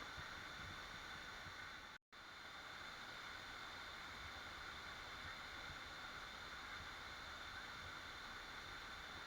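Waterfall rushing as a steady, even wash of water noise. The sound cuts out for an instant about two seconds in, then resumes unchanged.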